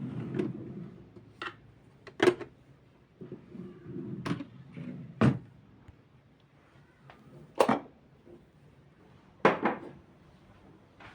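Kitchen handling sounds: about seven sharp, irregularly spaced knocks and clacks, like cupboard doors, drawers and things being set down, with a faint low rumble near the start.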